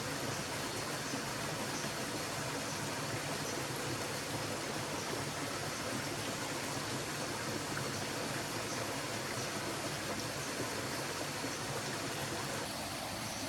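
Steady rushing and babbling of a forest stream.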